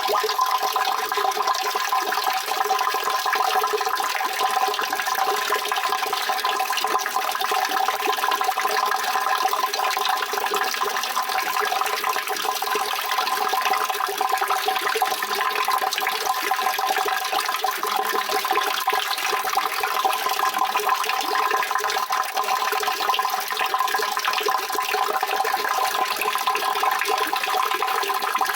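Steady rushing water, a continuous and even flow with no breaks or changes.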